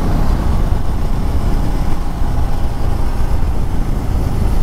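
Bajaj Pulsar N250's single-cylinder engine running steadily under way, mixed with heavy wind rumble on the microphone.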